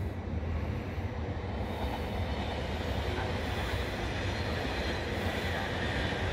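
Italo high-speed electric train running slowly through the station on a far track: a steady rail rumble with no sharp clatter.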